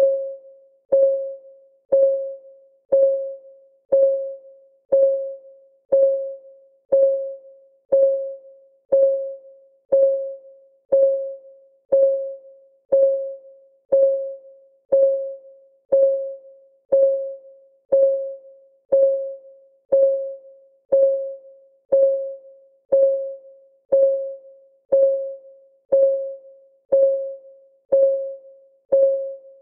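Countdown timer's synthetic clock tick: one short, pitched tock a second, each fading quickly, at a perfectly steady pace.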